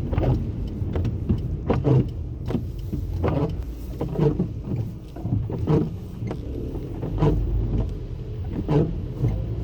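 Steady low rumble of a car driving, heard from inside, with a short knock or sweep repeating roughly every second.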